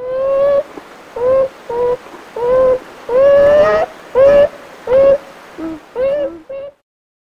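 Nutria (coypu) giving a series of about ten short pitched calls, each rising slightly in pitch and lasting a second or less. The longest call comes about three seconds in, and a few lower ones come near the end before the calls stop.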